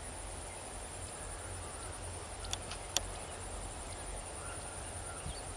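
Steady, high-pitched buzzing of insects in the field, over a low wind rumble, with a few faint short chirps and two sharp clicks about halfway through.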